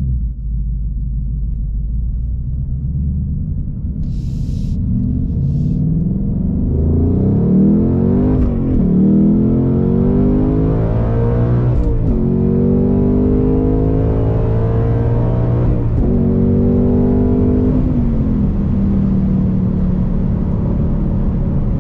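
2021 Ford Mustang Mach 1's 5.0-litre V8, heard from inside the cabin, accelerating through the gears of its six-speed manual. The engine note climbs and drops sharply at upshifts about eight and a half and twelve seconds in, with another shift near sixteen seconds. It eases off near eighteen seconds into a steady cruise.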